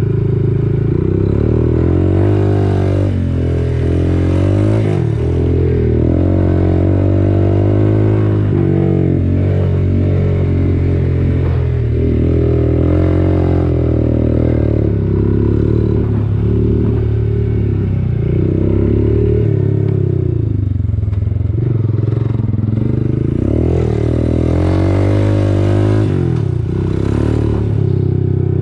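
Quad bike (ATV) engine running under way, its pitch rising and falling as the throttle is opened and eased off.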